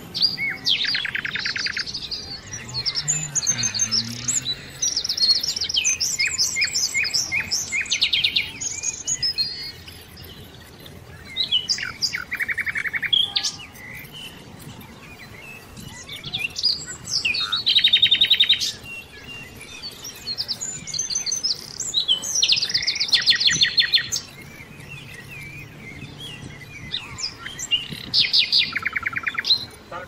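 Birds chirping in rapid, high trills of quickly repeated notes, coming in bouts of a second or two with short pauses between them.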